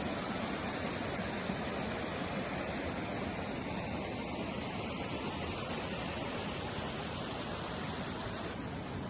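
Strong wind blowing across the microphone: a steady rushing noise with a buffeting rumble underneath.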